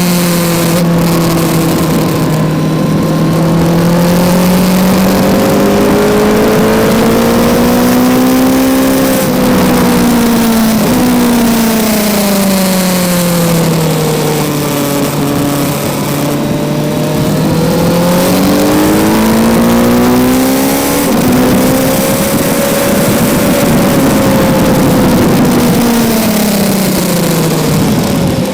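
A Kawasaki Z900's 948 cc inline-four engine, heard from on board the bike at full track pace. It revs up and down repeatedly, its pitch climbing for several seconds, then dropping sharply and winding down before climbing again.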